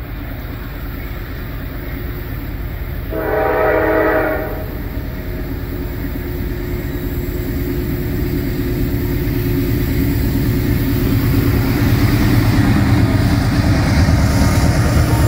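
Norfolk Southern diesel freight locomotives approaching, their engine rumble growing steadily louder, with one short horn blast about three seconds in. Near the end the lead units come alongside and the engine drone is at its loudest.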